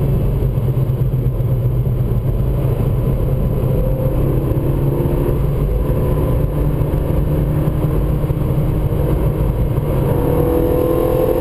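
Renault Megane RS's turbocharged four-cylinder engine under load, heard from inside the cabin over steady road and wind rumble. Its note climbs from about four seconds in and climbs again near the end as the car accelerates.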